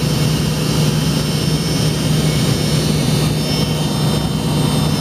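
Cabin noise of a McDonnell Douglas MD-88's rear-mounted Pratt & Whitney JT8D turbofans running at low taxi power, heard from a seat near the tail. It is a steady low hum with a rushing haze and a faint high whine.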